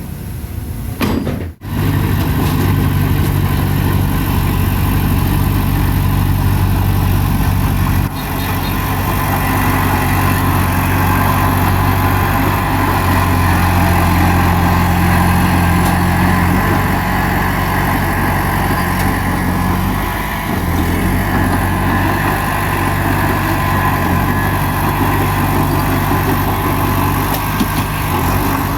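Bulldozer's diesel engine running steadily under working load. It breaks off abruptly about a second and a half in, then runs on, louder and slightly higher for a few seconds around the middle.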